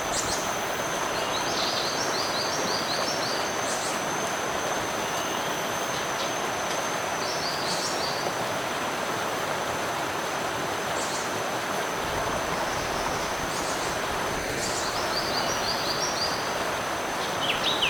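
Rushing stream water, a steady even noise, with a thin steady high tone over it. A bird call of several quick notes repeats three times, about every six to seven seconds.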